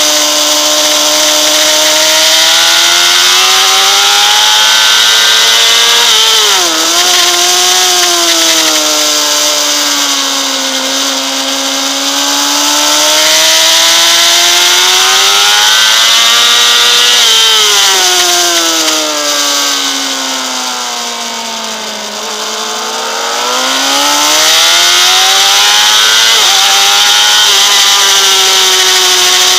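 Honda CBR600RR inline-four engine at track speed, its pitch rising and falling with the throttle. It gives a brief sharp dip about seven seconds in and again near the end, and a long slow fall and rise around the twenty-second mark. A steady rush of wind noise runs over it.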